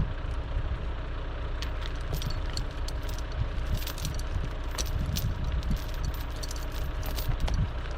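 Diesel engine of a piece of heavy equipment running steadily, with scattered metallic clicks and rattles.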